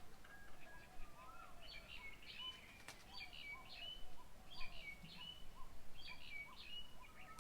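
Birds calling at a bird table: short chirping phrases repeat about once a second, over a lower call that also keeps repeating. A single sharp click sounds about three seconds in.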